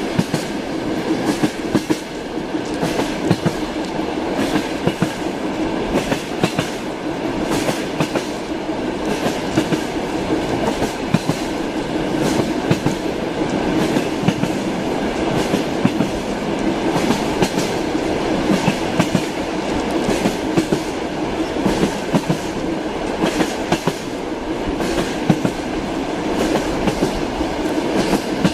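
Train wheels clattering over rail joints: a steady clickety-clack of short, irregular clicks over a continuous running rumble.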